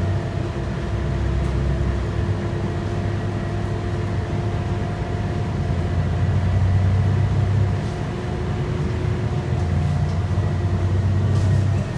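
Scania K230UB bus's 8.9-litre five-cylinder DC9 diesel engine running under way, a steady low rumble heard from inside the bus with a thin steady whine above it. The engine note eases briefly about eight seconds in.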